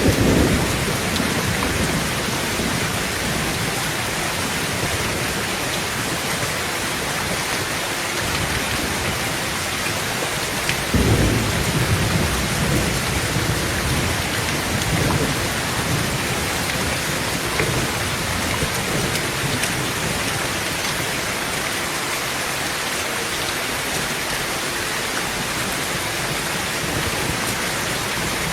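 Heavy rain drumming steadily on a tin tent roof, with rolls of thunder rumbling over it: one right at the start, the loudest about eleven seconds in, and fainter rolls trailing off after it.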